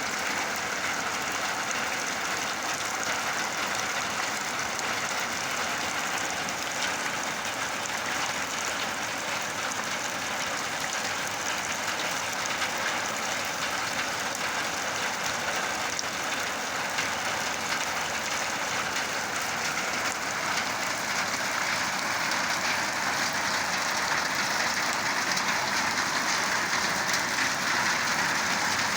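Steady rain falling, an even dense patter that grows a little louder over the last several seconds.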